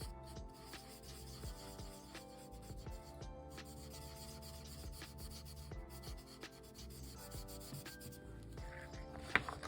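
Drawing strokes rubbing and scratching on paper, with soft ticks as the tool lifts and touches down. Quiet background music plays underneath, and a sharp click sounds near the end.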